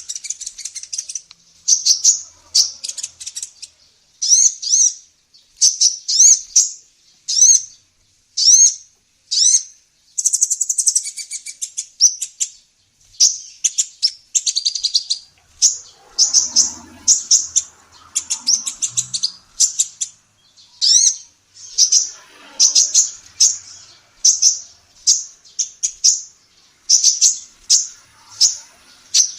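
Female kolibri ninja sunbird singing: a string of short, sharp, high chirps about one or two a second, breaking into a quicker twittering run about ten seconds in.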